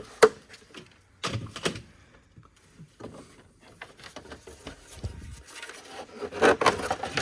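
Scraping and rubbing with a few sharp knocks as the charge air cooler is worked loose and pulled out from under the car, a louder cluster of scraping near the end.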